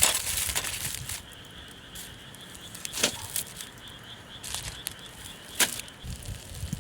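Wood campfire crackling: a few sharp, separate pops over a faint steady hiss.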